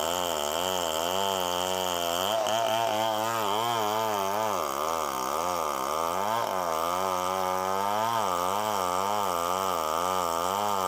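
Two-stroke chainsaw running under load while cutting, its engine note rising and falling over and over as the saw bogs and recovers in the wood.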